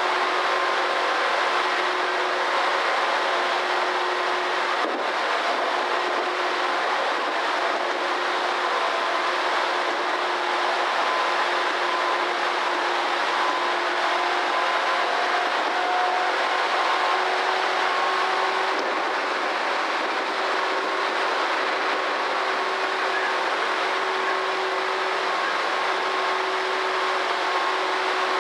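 Tobu Railway electric commuter train running at speed: a steady rumble of wheels on rail with a few faint steady tones over it, and a single knock about five seconds in.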